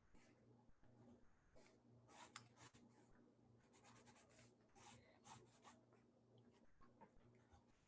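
Faint scratching of writing on paper: short, irregular strokes in clusters, over a low hum that comes and goes.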